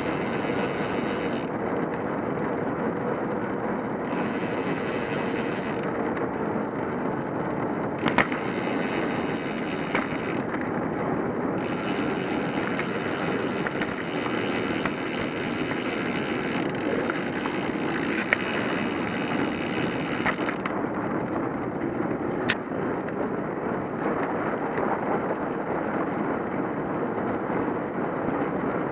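Riding noise from a cyclocross bike: a steady rush of tyres and wind on the microphone, with a hiss that comes and goes and a few sharp clicks along the way.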